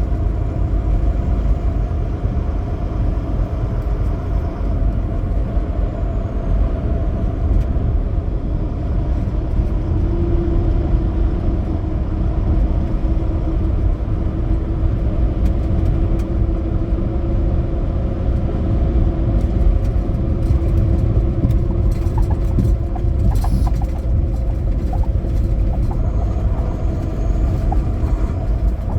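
Semi truck driving: a steady low rumble of engine and road noise. A steady droning tone comes in about a third of the way through and holds.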